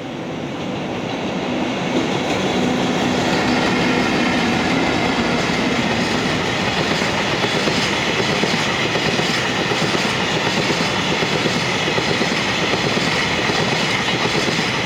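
Freight train hauled by double-headed EF64 electric locomotives passing: loud, steady wheel-and-rail noise that builds over the first couple of seconds, with a low hum in the first half and a rhythmic clatter of wheels over rail joints later.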